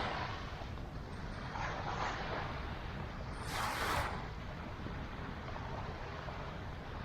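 Outdoor beachfront ambience: a steady low rumble of wind on the microphone and traffic, with two short rushes of noise about two and four seconds in.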